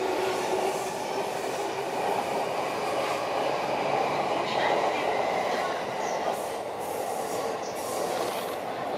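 Keihin-Tohoku Line commuter electric train running along a station platform: a steady noise of wheels and running gear, with a low steady tone that fades out in the first couple of seconds. Several sharp clicks come near the end.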